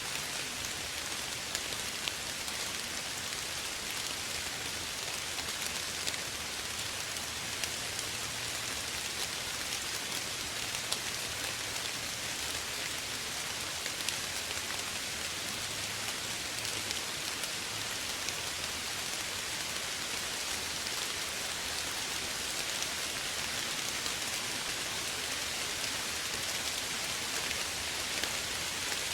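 Steady soft rain falling on a surface, an even hiss with scattered ticks of individual drops.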